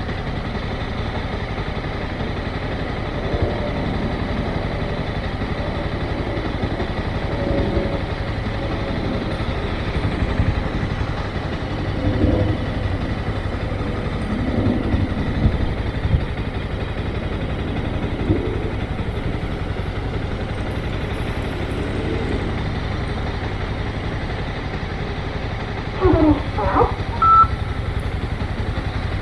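Motorcycle engine running at low speed, with road and wind noise and a few small swells in revs. Near the end comes a brief cluster of high squeaky chirps and a short beep.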